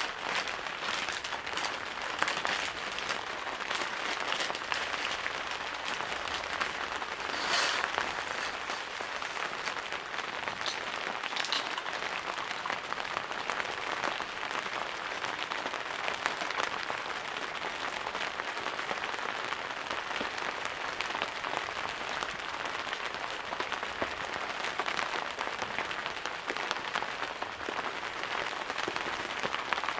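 Steady rain, a dense spatter of drops hitting a surface, with a brief louder swell about seven seconds in.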